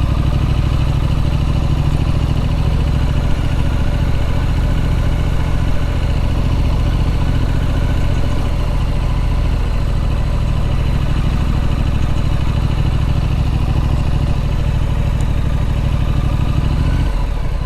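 Triumph Street Scrambler Sandstorm's 900cc parallel-twin engine running steadily under way, its note shifting near the end.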